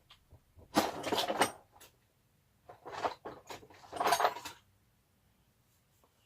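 Tools and small metal hardware being handled and clattering, in three short bursts, the first the longest.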